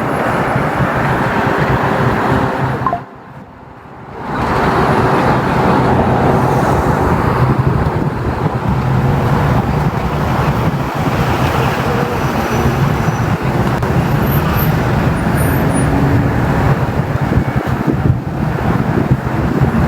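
Steady road traffic noise from passing cars, with a steady low engine hum, broken by a brief lull about three seconds in.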